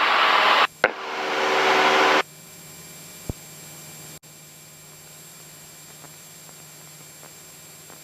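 Cessna 172SP cabin noise, engine drone and airflow hiss, heard loudly in the cockpit audio for about two seconds. It then cuts off suddenly, leaving a faint steady hum with a single click.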